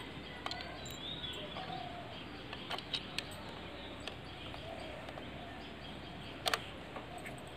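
Faint bird chirps over steady outdoor background noise, with a few light clicks and one sharper click about six and a half seconds in.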